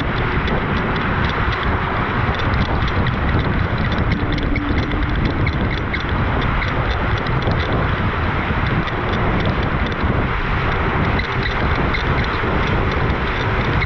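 Steady wind buffeting the microphone with water rushing past the hull of an RS800 sailing dinghy under way.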